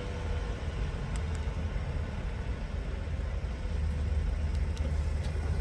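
2020 Chevrolet Blazer RS's 3.6-litre V6 idling just after start-up, a steady low rumble.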